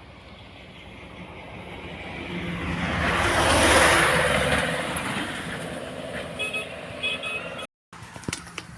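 A road vehicle passing close by: its engine and tyre noise swell to a peak about four seconds in, then fade away.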